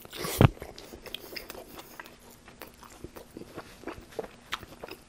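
A close-miked bite into a Subway Italian BMT flatbread sandwich about half a second in, then chewing with many small clicks.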